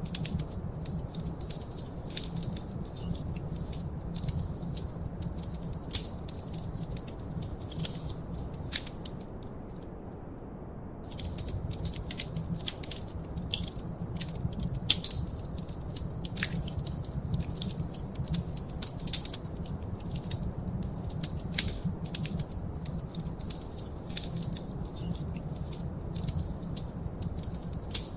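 Wood fire crackling in a fireplace: dense, irregular sharp pops and snaps over a low steady rumble. The crackling stops for about a second roughly a third of the way in.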